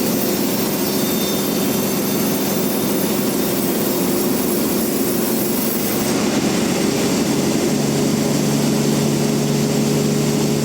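Band sawmill running steadily with a constant mechanical hum and rushing noise; about six seconds in the hiss thins and a lower hum comes in.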